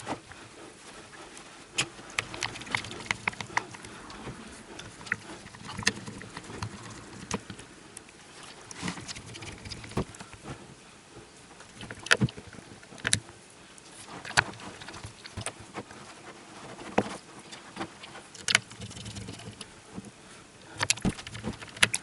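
Irregular light clicks and taps of small tools and phone parts being handled during a phone repair, some taps sharper than others.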